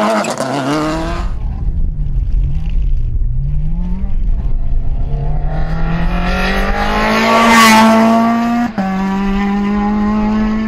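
Rally car engine at full throttle on a special stage, its note falling and rising as the driver lifts and gets back on the power, then climbing steadily as the car accelerates, loudest as it passes. A quick upshift breaks the note near the end before it holds high revs and fades away.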